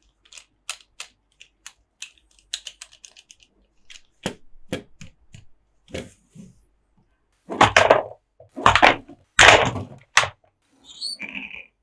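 Close-up hand sounds on Monster Jam toy trucks and playset pieces: a run of light, sharp taps and clicks. About eight to ten seconds in come three louder scraping, rustling bursts of handling.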